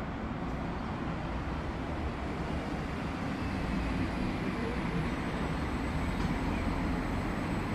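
Long, low rumble of rolling thunder, swelling slightly about four seconds in.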